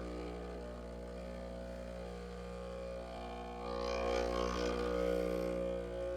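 Vibratory pump of a Breville Barista Express espresso machine humming steadily while a shot is pulled. About three and a half seconds in, a louder hissing layer swells for roughly two seconds, then fades.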